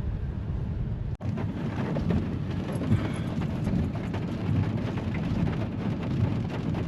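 Rain pattering on a car's roof and windshield, heard from inside the cabin as many scattered sharp ticks over a low rumble. The sound breaks off sharply for an instant about a second in.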